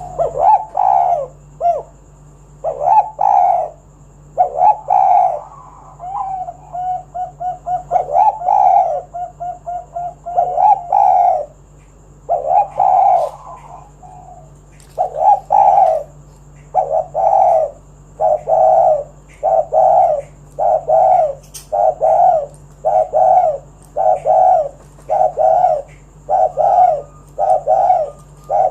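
Spotted dove cooing over and over in loud phrases, with a quick run of short notes in the first half. From about halfway the coos settle into an even series of about one a second, over a faint steady hum.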